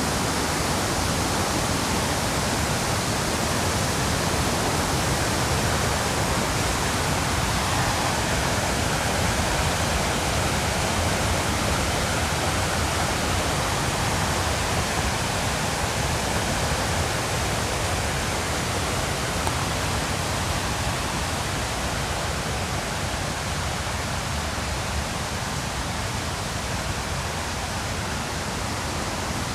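River rapids rushing in a steady, even roar of white water, easing slightly toward the end.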